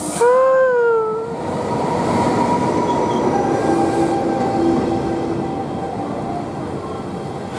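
An electric locomotive gives a horn blast about a quarter second in, lasting about a second, its pitch bending as it fades. Then the locomotive and its double-deck coaches run past the platform with a steady rumble and rattle, and faint steady whining tones sound over it.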